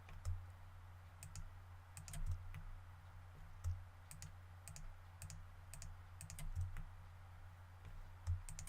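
Computer mouse and keyboard clicks, about a dozen at irregular intervals, over a faint low steady hum.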